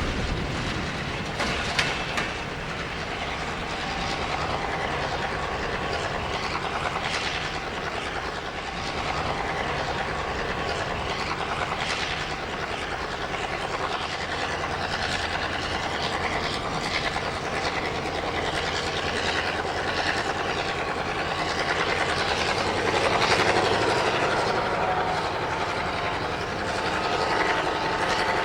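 A train rolling past steadily, its wheels clicking over rail joints now and then.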